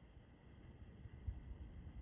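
Near silence: a faint low background rumble with no barking.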